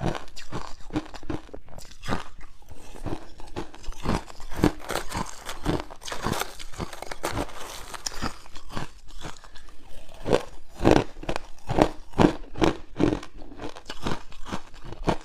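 Hard ice being bitten and chewed close to the microphone: a rapid run of sharp crunches, several a second, heaviest in the last third.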